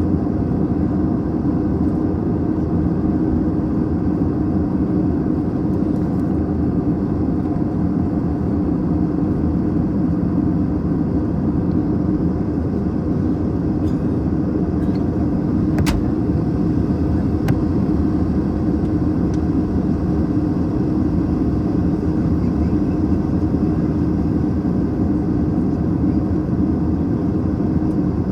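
Airbus A321 airliner in flight, heard from the cabin: a steady drone of engine and airflow noise with a low hum. A single sharp click about 16 seconds in.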